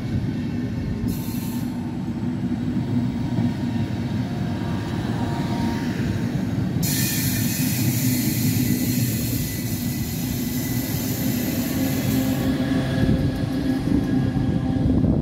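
Passenger coaches of a departing locomotive-hauled train rolling past with a steady low wheel rumble. A high-pitched wheel squeal comes briefly about a second in and again, loudly, from about seven to twelve seconds. The electric locomotive passes near the end.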